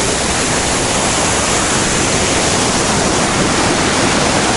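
Waterfall pouring over sandstone: a loud, steady rush of water.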